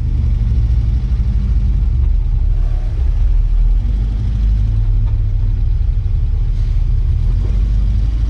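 Porsche 924's 2.0-litre four-cylinder engine running steadily, heard from inside the race car's cabin.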